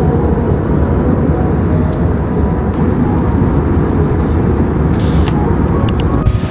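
Steady low rumble of a moving vehicle, with a few light clicks near the end.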